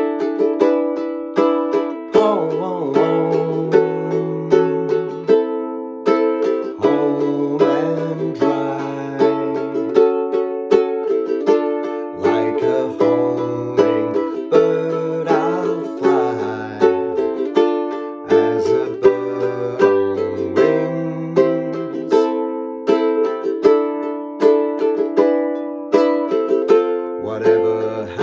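Ukulele strumming a chord progression in a steady rhythm. A lower bass line comes in and out underneath.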